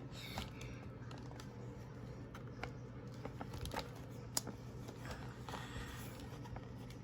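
Faint rustling of paper, with scattered small clicks, over a steady low hum.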